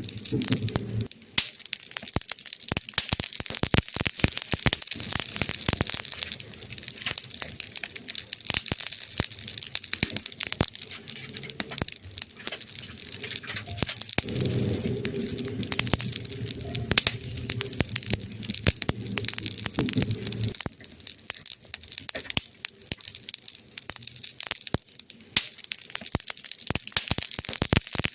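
Burning wood crackling in a fireplace: a dense, steady run of sharp pops and snaps over a constant hiss. A low rumble joins the crackle for several seconds in the middle.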